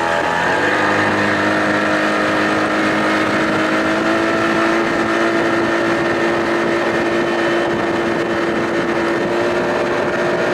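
Johnson 25 hp outboard motor running under way at speed. Its pitch climbs briefly at the start as it revs up, then holds steady, with rushing wind and water behind it.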